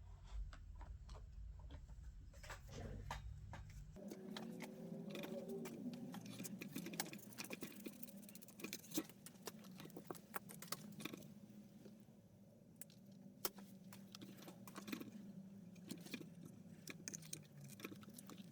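Faint, irregular clicks and light rattling of small hard objects being handled, with a low hum that stops about four seconds in.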